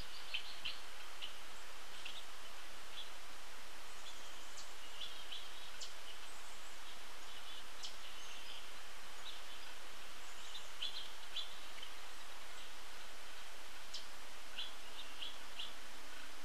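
Scattered short, high bird chirps and calls, with a few sharp clicks, over a steady outdoor hiss.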